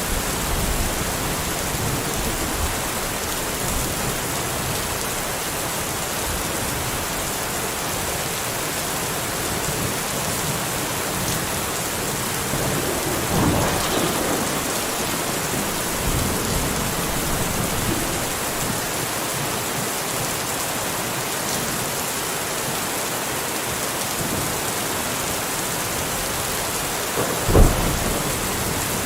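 Steady rain falling, an even hiss of drops, with two brief louder low thumps, one about halfway and a sharper one near the end.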